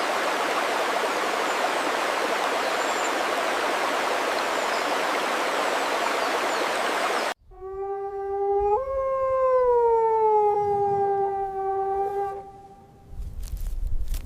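A steady, even hiss runs for about seven seconds and cuts off abruptly. Then a dog howls: one long call of about five seconds, stepping up in pitch about a second in and slowly sagging back. Low rumbling and a few short knocks follow near the end.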